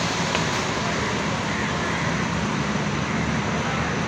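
Pakistan Railways passenger coaches of a departing train rolling slowly past on the track, a steady, even noise of wheels on rail with a low hum underneath.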